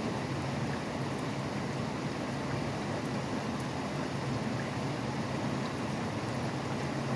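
Steady rain falling, with a low rumble of highway traffic running underneath.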